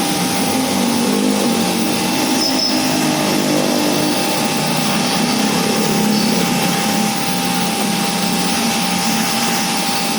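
Electric pressure washer running steadily for AC coil cleaning, a continuous hissing noise with a thin steady whine over it.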